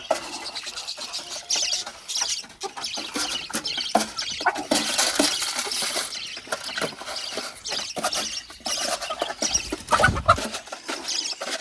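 Hens clucking, with a low thump just before ten seconds in.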